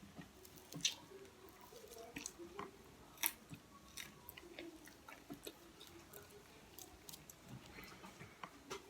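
A person chewing food close to the microphone: wet mouth smacks and small crisp clicks, with two sharper crunches about one second and about three seconds in.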